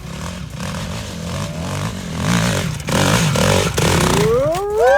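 Two-stroke dirt bike engine revving unevenly on a steep hill climb, with rattling clatter. Near the end a loud tone rises and then falls away.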